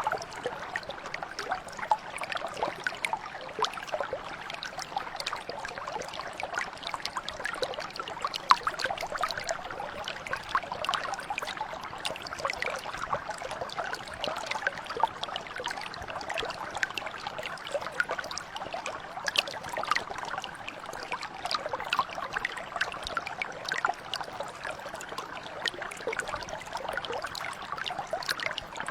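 A mountain brook flowing steadily over stones, a continuous babble with many small splashes and trickles.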